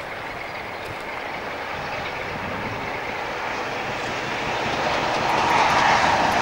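Diesel train approaching, its rumble growing steadily louder.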